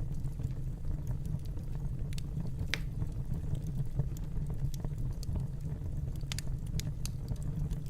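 Wood fire crackling in a fireplace: a steady low rumble with scattered, irregular sharp pops and snaps, a few louder ones about a third of the way in and again near the end.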